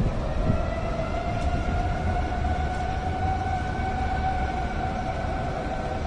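Outdoor tornado warning siren sounding a steady wail, its pitch rising slightly over the first second and then holding, over a constant low rumble.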